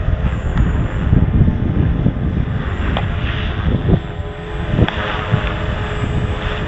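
Strong wind buffeting the microphone, with the steady whine of a radio-controlled helicopter flying overhead faintly beneath it.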